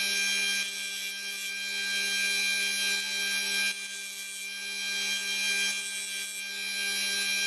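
Bench grinder running with a steady whine while a twist drill bit is ground against the wheel in a jig, reshaping the bit's heel and relief behind the cutting edge. The grinding noise eases and swells slightly as the bit is worked.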